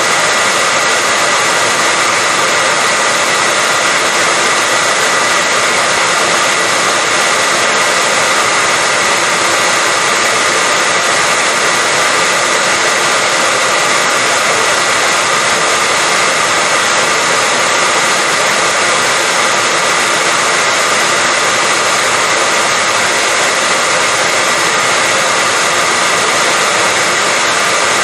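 Hair dryer running steadily on one setting: a constant airflow hiss with a faint high motor whine.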